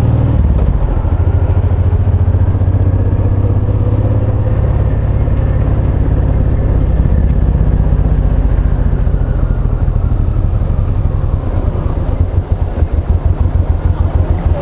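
Honda VTX1800C's big V-twin engine running under way. Near the end its beat slows into separate, even pulses as the revs drop.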